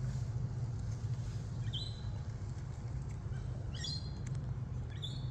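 Birds chirping: a few short high calls, one about two seconds in, a quick cluster around four seconds and another near the end, over a steady low hum.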